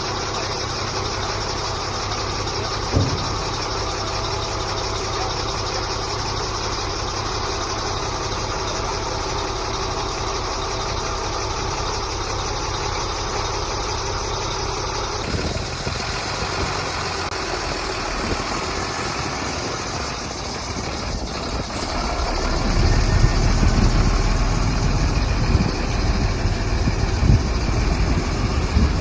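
The heavy diesel engine of a HOWO 8x4 dump truck idling steadily. About halfway through the sound changes abruptly. From about two-thirds of the way in, a louder, deeper rumble with a few thumps takes over.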